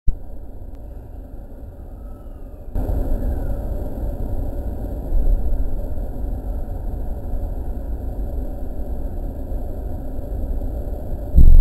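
Steady low rumble inside the cab of an E217-series electric train standing at the platform. It steps up louder about three seconds in, and there is a short loud thump near the end.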